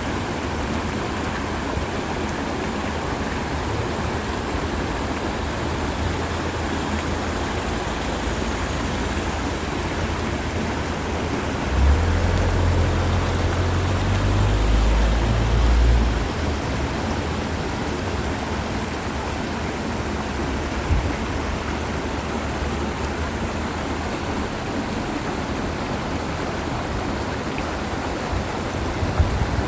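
Mountain stream flowing steadily over rocks, a constant rushing. A low rumble of wind on the microphone swells for a few seconds in the middle.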